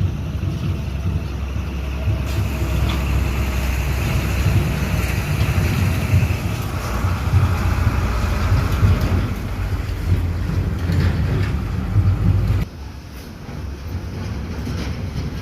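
Dump truck engine running hard under load with a low rumble that drops off abruptly about twelve seconds in.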